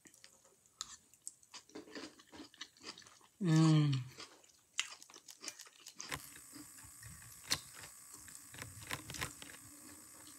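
Close-up chewing of chicken, noodles and crisp-cooked vegetables, with many small wet crunches and crackles. About three and a half seconds in comes a loud hummed 'mmm' of enjoyment, falling in pitch.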